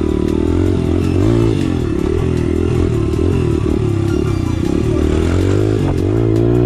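Motorcycle engine running under way, its pitch rising and falling as the throttle changes.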